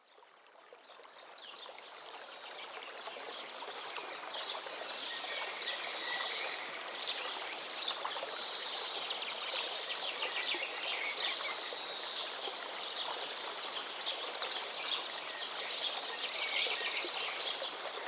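Running water with many birds chirping and calling over it, fading in from silence over the first few seconds.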